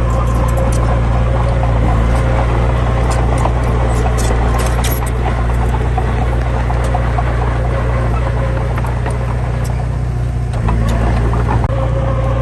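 Heavy diesel engine running steadily at a constant speed, with scattered light clicks over it.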